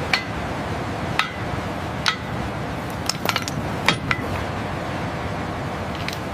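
Sharp metallic clinks, about eight of them spaced irregularly, some ringing briefly, over a steady rushing hiss.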